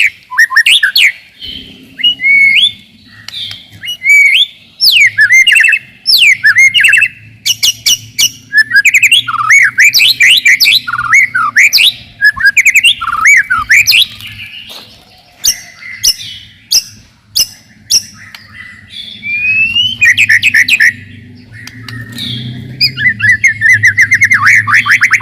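White-rumped shama (murai batu) singing in fast, dense bursts of rapid trills, whistled up-and-down sweeps and sharp clicking notes, with only short gaps between phrases. A low steady hum lies underneath from about a second and a half in.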